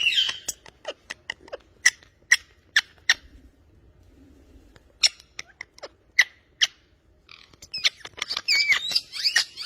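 Two runs of sharp taps, followed near the end by a pet parrot's gliding, whistled squawking calls.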